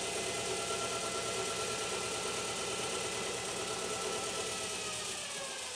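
Small electric motor on a test bench running at a steady speed, a whine over a faint hiss; near the end its pitch falls as it slows down.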